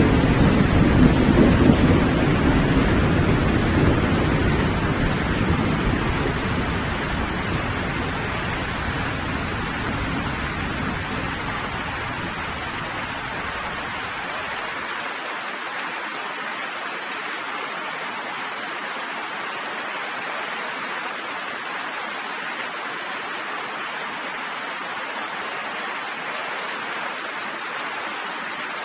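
Steady rain with a roll of thunder. The thunder rumbles loudest at the start and dies away over the first dozen or so seconds, leaving the even hiss of the rain.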